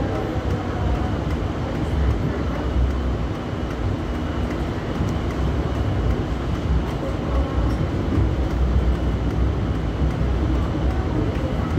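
Hong Kong Light Rail Phase III light rail vehicle running along the track: a steady low rumble of wheels and traction motors, heard from inside the car.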